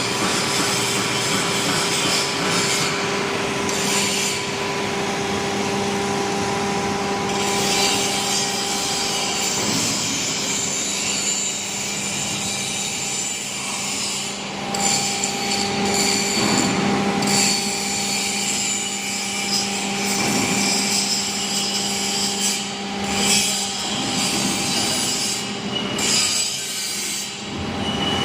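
W24S CNC hydraulic profile bending machine rolling a steel tube: the steady hum of its hydraulic power unit under a continuous scraping, rubbing noise of the tube being drawn through the bending rolls.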